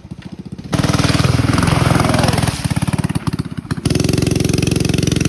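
Small single-cylinder mini bike engine running close by, with rapid even firing pulses. It gets louder about a second in, eases off in the middle, then runs loud again near the end.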